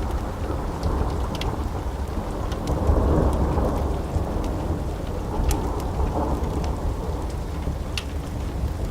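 Steady rain with a deep, rolling rumble of thunder that swells about three seconds in, and scattered sharp ticks over the top.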